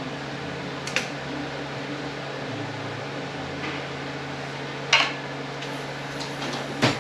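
Metal automatic-transmission parts clinking as they are handled on the bench: a sharp clink about a second in, a louder one at about five seconds, and another near the end, over a steady hum.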